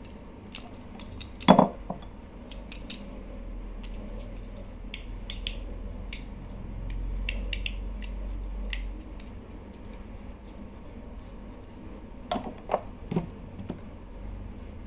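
Parts of an opened hair trimmer being handled: scattered light plastic clicks and taps, with a louder knock about a second and a half in and a few more knocks near the end.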